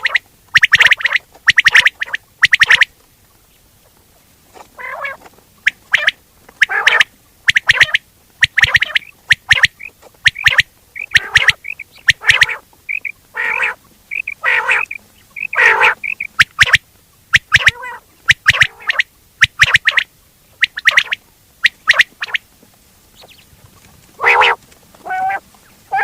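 Quail calling over and over in short, loud, harsh notes in quick irregular groups, with a run of brief clear whistled notes in the middle.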